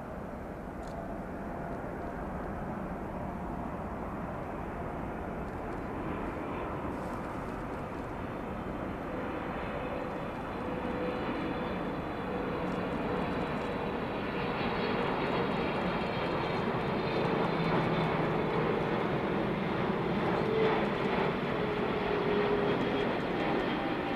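Jet engines of a Boeing 777-300ER airliner, growing steadily louder as the aircraft comes nearer, with several steady tones in the engine noise.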